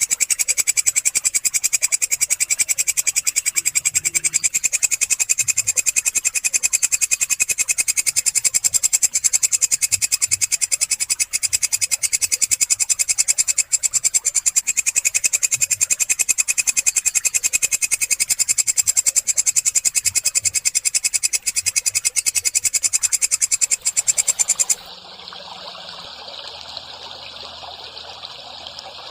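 Walang kecek katydid calling: a loud, high-pitched, very fast pulsing trill with no break. About 25 seconds in it cuts off suddenly, giving way to a quieter steady hiss like trickling water.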